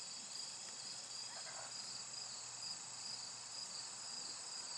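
Chorus of insects chirping steadily in a thin, high-pitched drone that pulses finely.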